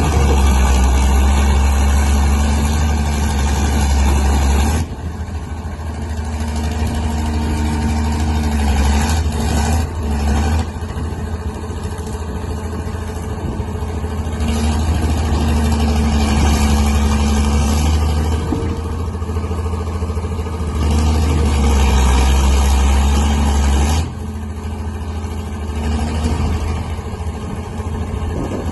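Crawler tractor ('cat') engine running under load, its sound swelling and easing several times: loud for the first five seconds, building again through the middle and loudest once more about three-quarters through before dropping back.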